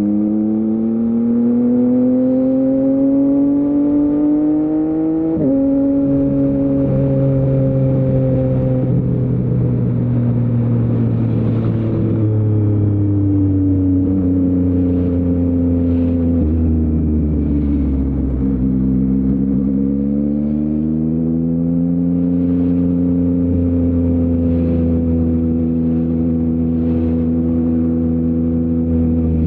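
Yamaha MT-09's CP3 inline-triple engine through an Akrapovic full-system exhaust, under way. The revs climb for about five seconds, then drop sharply at a gear change and ease off through the middle. They pick up again about two-thirds in and then hold steady.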